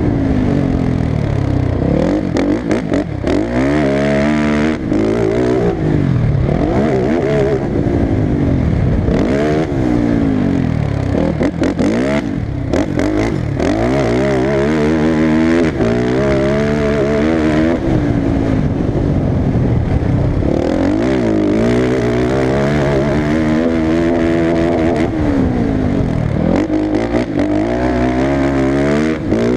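Motocross racing engines revving hard, their pitch climbing and dropping again and again as the throttle is worked through the turns and gear changes, with more than one engine heard at once at times.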